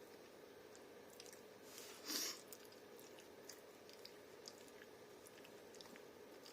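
Faint chewing and mouth sounds of a person eating a burger, with one louder rustling rush about two seconds in.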